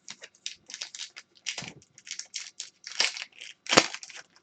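Foil wrapper of a hockey card pack being torn and crinkled open by hand: a run of irregular crackly rustles, with the loudest crinkles about three and four seconds in.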